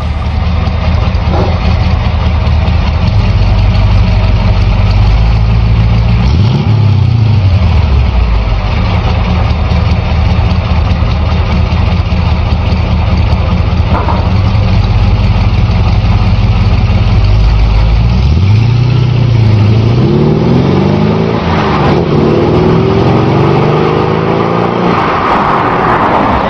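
GAZ-24-34 Volga's V8 engine idling, revved up and back down once about six seconds in, then revved several times in quick succession over the last eight seconds.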